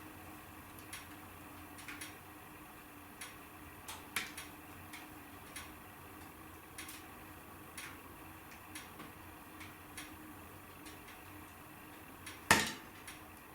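Wood fire crackling in a fireplace: scattered small pops and snaps over a faint steady background, with one sharp loud crack near the end.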